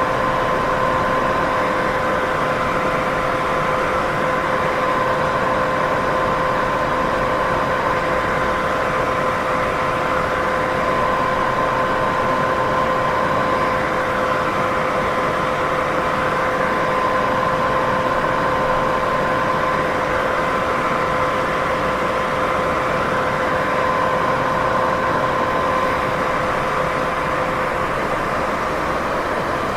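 Steady white noise used as a sleep and sound-masking track: an even, unchanging hiss with two faint steady hum tones running through it.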